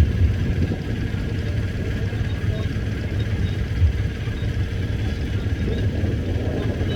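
Fast passenger boat's engines running with a steady low rumble as the boat gets under way.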